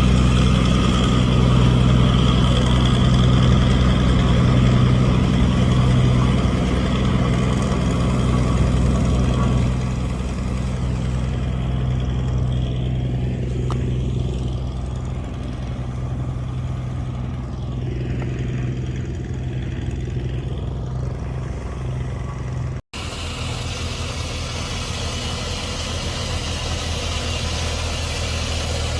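Diesel engine of heavy construction machinery running steadily, a low, even hum. It breaks off for an instant about three-quarters of the way through and carries on with a slightly different tone.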